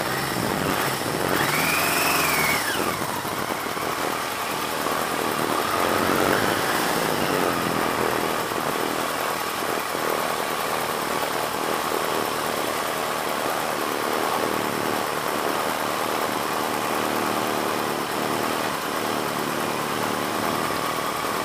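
1982 Yamaha XJ650's air-cooled inline-four engine running at low speed and idling. Its pitch rises and falls once, briefly, about two seconds in, then holds steady.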